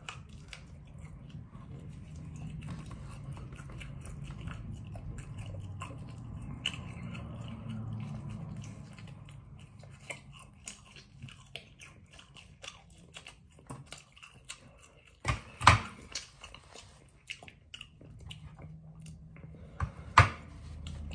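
A person chewing and biting pork ribs and bread close to the microphone: dense chewing through the first half, then quieter chewing with scattered small clicks. A few loud, sharp crackles stand out in the second half.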